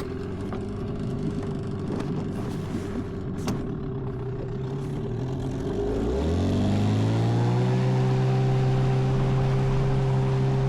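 Boat outboard motor starting suddenly and running at a low, uneven idle, then throttled up about six seconds in, its pitch rising to a steady, louder cruising run.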